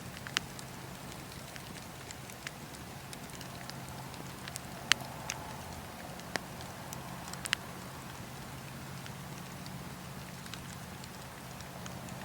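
Wood fire burning in a fireplace, with a soft steady hiss and scattered sharp crackles and pops, the loudest about five seconds in.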